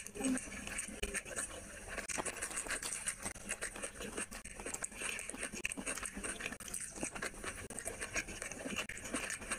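Close-miked chewing of rice and curry: a continuous run of small wet clicks and lip smacks.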